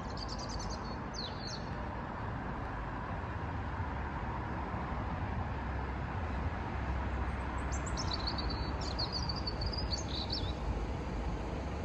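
A small bird gives two short bursts of high chirping, one at the start and one near the end, over a steady low rumble.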